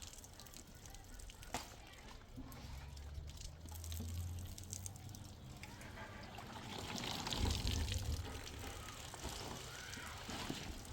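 Water sloshing and pouring, swelling loudest about two-thirds of the way through, with a low rumble underneath.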